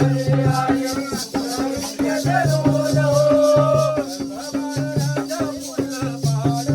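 Live Jakhadi folk music: a pitched drum beating a quick, even rhythm under steady metallic jingling, with a wavering melody carried above.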